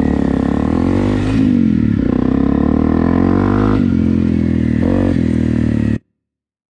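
Single-cylinder Honda motorcycle engine revving hard under acceleration, the pitch climbing and dropping several times as the throttle is worked and gears change. The sound cuts off suddenly near the end.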